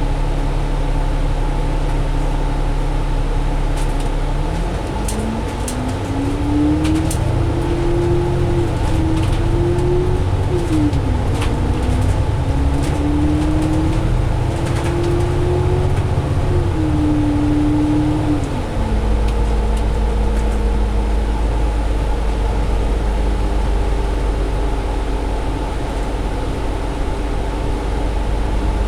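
Cummins ISL diesel engine of a double-decker bus heard from inside the cabin, accelerating: its pitch climbs from about four seconds in, drops sharply at an automatic gearshift near ten seconds, climbs again, then eases back to a lower steady drone near the end. Faint rattles tick through the acceleration.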